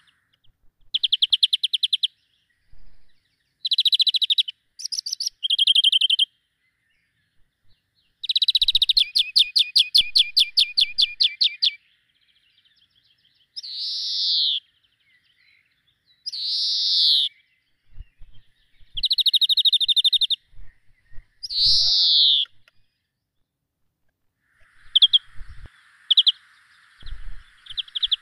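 Birds calling in bursts of rapid, high chirps, with several short calls that sweep downward in pitch, separated by silent gaps.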